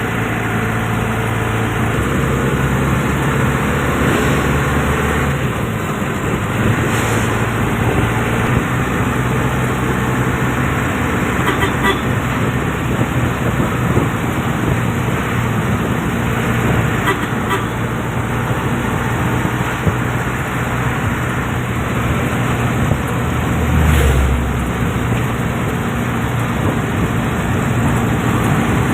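Motor vehicle traffic: engines running with steady road noise, and a louder low rumble about 24 seconds in.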